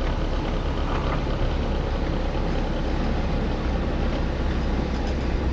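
Steady rumble of a car being driven: engine and road noise, even throughout with a strong low drone.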